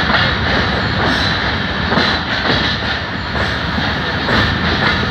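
Pakistan Railways passenger carriage rolling slowly into a station, heard from its open doorway: a steady rumble of wheels on the rails with a few irregular clacks.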